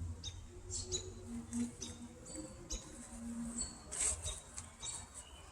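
Small birds chirping: many short, high chirps, about two a second, faint over low background rumble.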